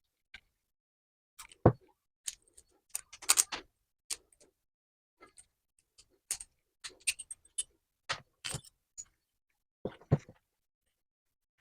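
Irregular clicks and light knocks of tools and parts being handled on a workbench, the sharpest about a second and a half in, with short clusters of ticking between.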